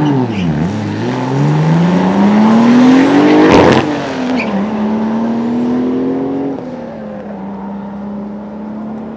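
A car engine is revved up and down a few times, then accelerates hard, its pitch climbing steadily. About three and a half seconds in there is a sharp crack as the pitch drops at an upshift. It then pulls again in the next gear and eases off to a lower, quieter note.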